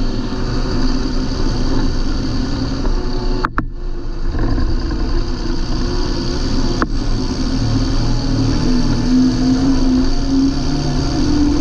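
John Deere 8320 tractor's six-cylinder diesel engine running steadily. Two sharp clicks cut through it, about three and a half and seven seconds in.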